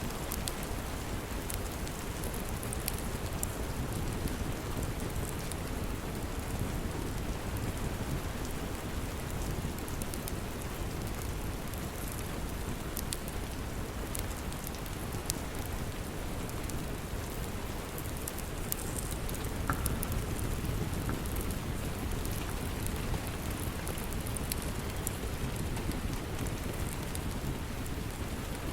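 Steady rain falling, with scattered sharp crackles from a wood fire in a fireplace.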